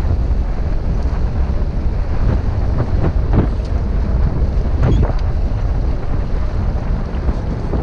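Wind buffeting the microphone aboard a sailboat under way, a steady low rumble with the wash of water along the hull. There are a few short louder noises about three and five seconds in.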